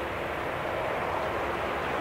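Jet engine noise from a Boeing 787-10 departing on its takeoff: a steady, even rushing noise.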